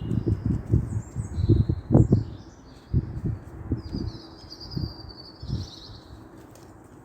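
Small birds chirping and warbling, with a longer trilled phrase about four to five seconds in. Under them runs a series of irregular low thumps, loudest and most frequent in the first three seconds.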